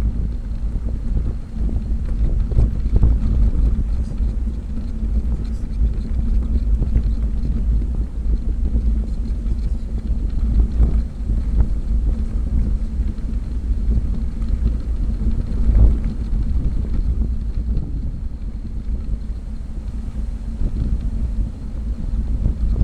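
Wind rushing over the microphone while cycling: a loud, gusty low rumble with a faint steady hum underneath.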